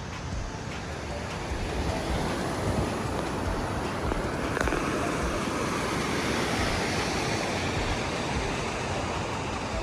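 Ocean surf washing on the beach, a steady rush of waves that swells a little midway, with wind rumbling on the microphone.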